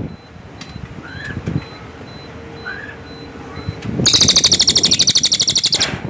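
Small songbird, known locally as cililin, giving two short, soft chirps, then a loud, rapid, very high trill of about ten notes a second that lasts about two seconds and stops abruptly near the end.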